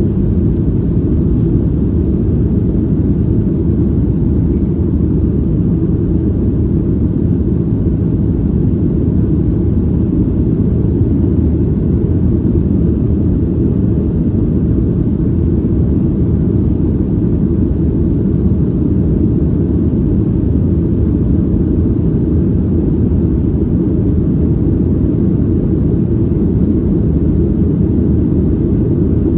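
Boeing 737-700 jet airliner's CFM56 engines and airflow making a steady, loud low rumble that holds even throughout, with no rising whine or change in pitch.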